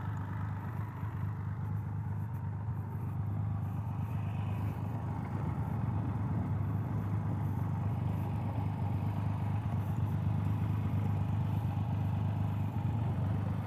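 Triumph Rocket 3 GT's 2.5-litre inline three-cylinder engine idling steadily.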